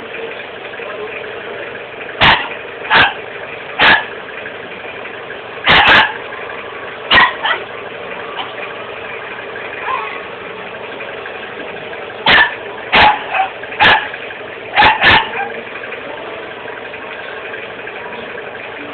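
A dog barking in short bursts, about a dozen barks in three clusters, over a steady background hum.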